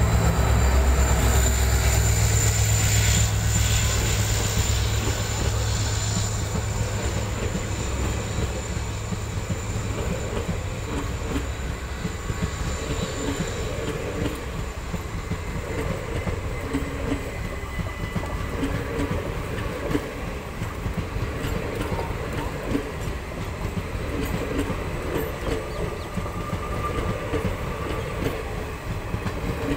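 Indian Railways passenger train passing close by. The two diesel locomotives' engines drone loudly at first and fade over the first several seconds. The coaches then roll past with a steady clatter of wheels over the rail joints.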